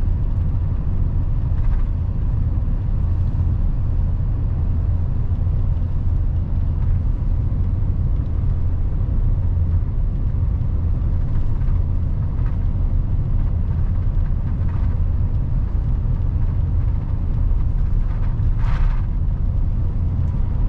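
Inside the cab of a 2020 Chevy Silverado 3500HD dually diesel under way: a steady low drone of engine and road noise. A short rush of noise comes near the end.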